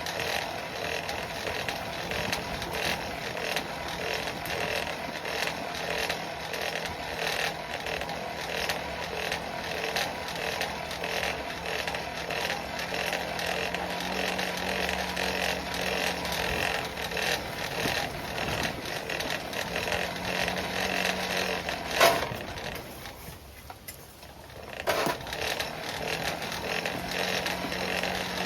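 Forge blower running steadily, air feeding the coal fire while a chain link heats, with a low motor hum. About 22 seconds in there is a sharp knock, the sound drops off for a couple of seconds, then comes back with another knock.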